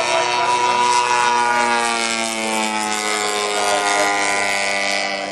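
The 106cc petrol engine of a large radio-controlled GeeBee model plane running hard with a strong propeller drone. Its pitch sinks slowly throughout and it fades a little near the end.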